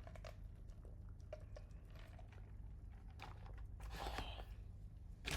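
Faint handling of takeaway food packaging: scattered soft clicks and brief rustles, a little louder about three to four seconds in, over a low steady hum.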